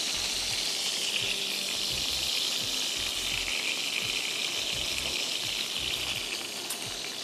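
Seekh kebabs shallow-frying in hot oil in a pan, a steady sizzle that eases slightly near the end.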